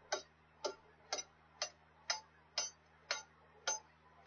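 Evenly spaced hammer blows, about two a second, on a snow-chain repair link braced from behind with a crowbar, beating the link closed on a truck tire chain.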